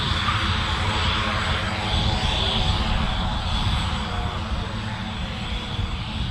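Short Skyvan's twin turboprop engines running with a steady drone and propeller noise, easing off slightly in the second half.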